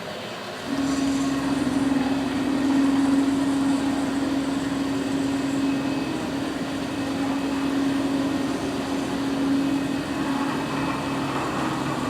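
Stepper motors of a CNC plasma-cutting table driving the gantry along its rack-and-pinion rails: a steady whine at one pitch, starting about a second in and holding as the gantry travels at constant speed.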